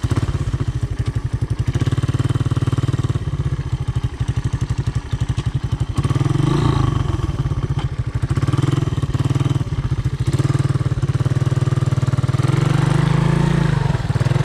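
Honda ATC 200M three-wheeler's single-cylinder four-stroke engine running under way, its firing pulses steady. The revs pick up about six seconds in and again near the end.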